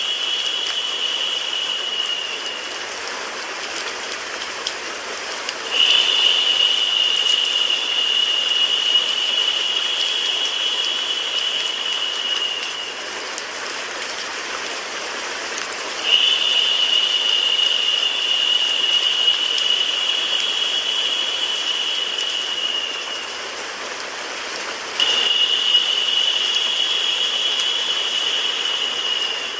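Steady rain and white-noise hiss. Over it, a high, steady tone comes and goes in stretches of about seven seconds, with gaps of a few seconds between them.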